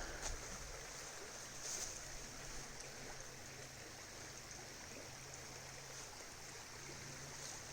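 River water flowing steadily past the campsite, a continuous low rushing.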